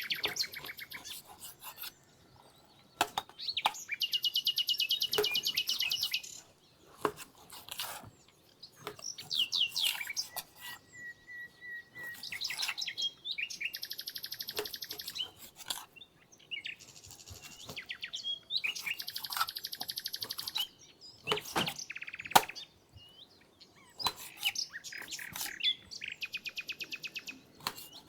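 Songbirds singing: high, rapid trills about two seconds long, repeated every few seconds, between shorter chirps. A few sharp knocks or clicks stand out, the loudest a little over twenty seconds in.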